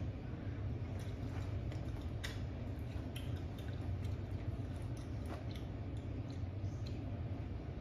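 Someone chewing pieces of lime and its peel: faint chewing with scattered small clicks over a steady low hum.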